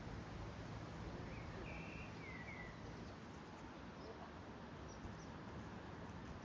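Faint outdoor ambience with a steady low background hiss, and a small bird calling a quick run of three or four short notes, the last ones falling, about a second and a half in.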